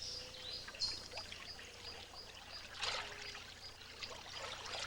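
Water splashing and trickling, with a short high chirp repeating evenly about three times a second in the background.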